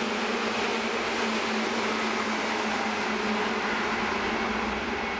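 Seibu Railway electric commuter train running past on the adjacent track: a steady rumble and rattle of wheels on rail with a low, even motor hum.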